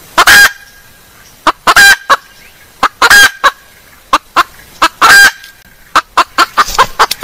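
Female junglefowl calling: four loud calls spaced one to two seconds apart, with shorter clucks between them and a quick run of clucks near the end, loud enough to distort. It is a hen's call used as a lure to draw wild junglefowl.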